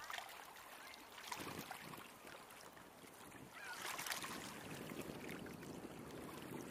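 Steady wash of moving lake water, swelling briefly about a second and a half in and again around four seconds.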